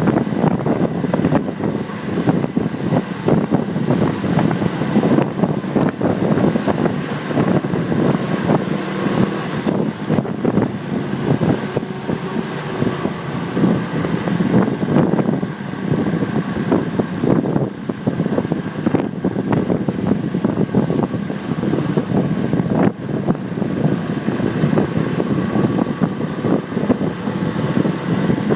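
Motorcycle engine running while riding in traffic, heard through a phone mounted on the bike, with wind buffeting the microphone.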